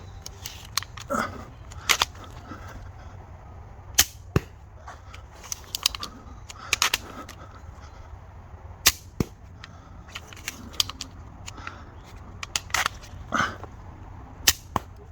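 3D-printed pump-action repeating crossbow pistol firing 6 mm bolts off rubber bands: a series of sharp snaps and plastic clacks at uneven intervals, as shots are loosed and the pump action is cycled between them.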